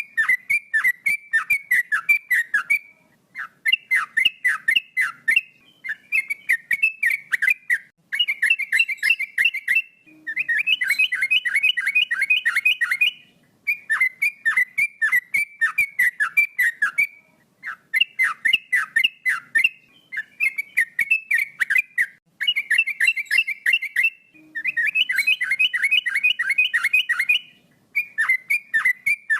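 Male yellow-vented bulbul (trucukan) singing continuously, in loud bursts of fast, downward-sweeping whistled notes about two to three seconds long, with brief pauses between them.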